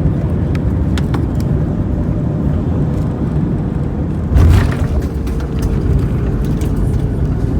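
Steady low rumble of an Airbus A321neo cabin, heard from inside, with a sudden loud thump about four and a half seconds in.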